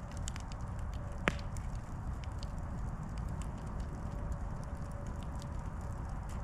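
Campfire burning: scattered wood crackles over a steady low rumble, with one sharp, loud pop about a second in.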